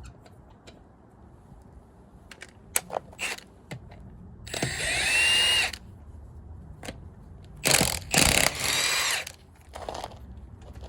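A power tool, a drill or impact gun, spinning off the wheel's lug nuts in two bursts of about a second and a half each. Its pitch rises as it spins up and then holds, with a few metal clinks before the bursts and a short third run near the end.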